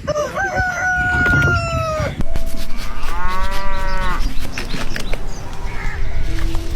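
Farm animals calling: a long, high, slightly falling call lasts about two seconds, then an arching, lower, many-toned call comes about three seconds in, with shorter calls after it.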